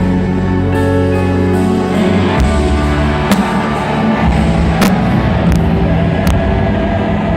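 Loud live concert music over a stadium sound system, with several sharp firework bangs cutting through it, the clearest in the middle and latter part.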